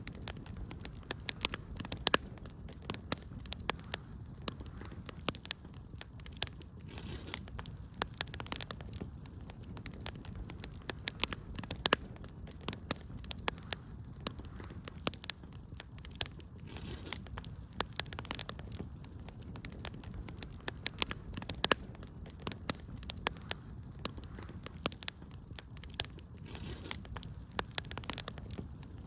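Wood fire crackling steadily: frequent sharp, irregular pops and snaps over a low, steady rumble of the flames.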